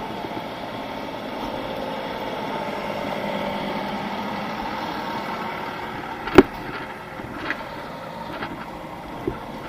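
Truck engine idling steadily, with a sharp click about six seconds in and two fainter clicks after it.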